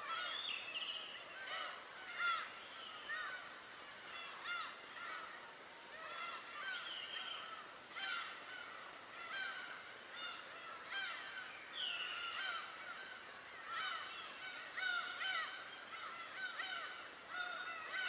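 A flock of birds calling over one another: many short, arching, honking calls in quick succession.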